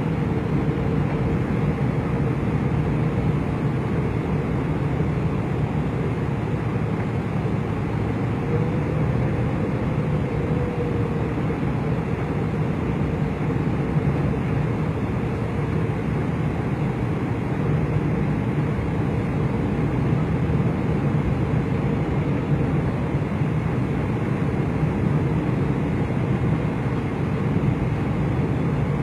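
Jet airliner cabin noise: the engines and airflow make a steady, even rumble. A faint tone rises and falls briefly about nine seconds in.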